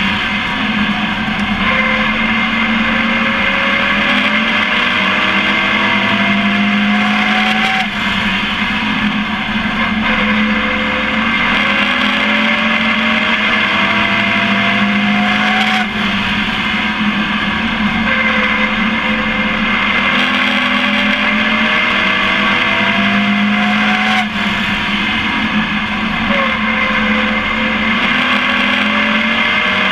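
Race truck engine heard onboard. It climbs steadily in pitch for several seconds, then drops back off the throttle, over and over about every eight seconds as it laps, under a constant loud rumble.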